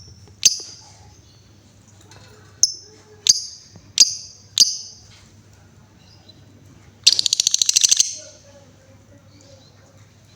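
Female lovebird calling: a string of sharp, shrill chirps about half a second to a second apart, then near the middle a rapid rattling trill of about a second, the long 'ngekek' chatter.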